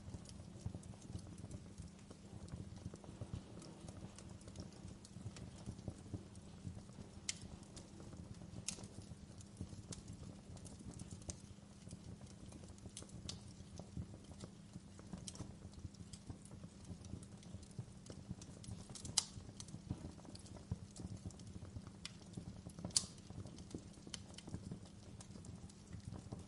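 Wood fire in a fireplace crackling continuously over a low rumble of flames, with a few louder, sharper pops, the loudest two in the second half.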